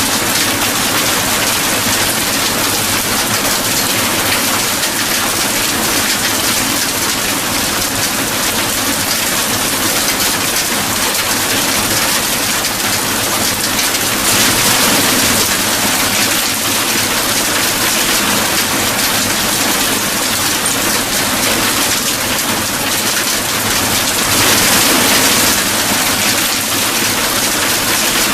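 Steady heavy rain, a dense even hiss, swelling slightly twice.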